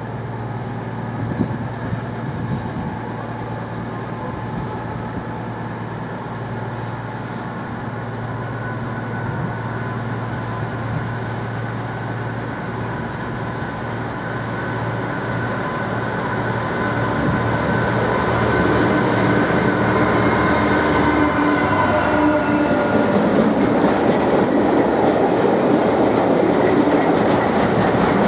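Class 66 diesel freight locomotive hauling car-carrier wagons through the station: its engine hums steadily as it approaches, then the sound grows louder from about two-thirds of the way in as the locomotive and the long rake of wagons roll past on the rails.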